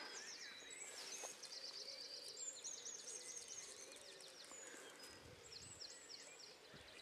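Faint birdsong: runs of quick, high chirping notes, repeated several times over a quiet outdoor background.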